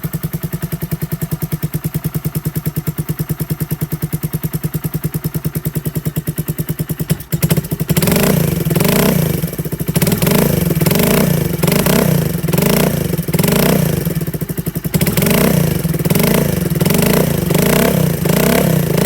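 Suzuki GN125H single-cylinder four-stroke engine through a bullet-style muffler, idling steadily, then from about seven seconds in blipped on the throttle about once a second, each rev rising and dropping back to idle.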